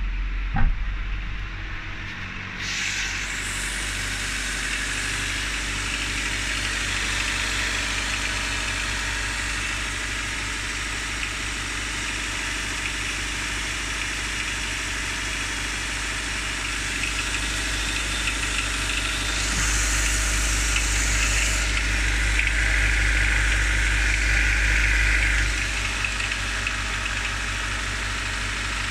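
Honda D15Z6 1.5-litre four-cylinder engine running cold just after start-up, with a knock on the cold engine of the kind that fades after about half a minute of running. It gets louder about 19 seconds in and settles back about 26 seconds in.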